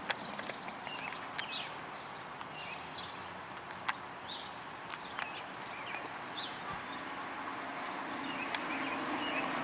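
Steady rain falling, with sharp drips ticking now and then, and small birds chirping in short calls throughout.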